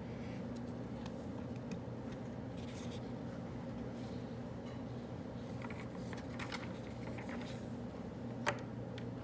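Writing on paper in short, faint scratchy strokes over a steady low hum, with one sharp click about eight and a half seconds in.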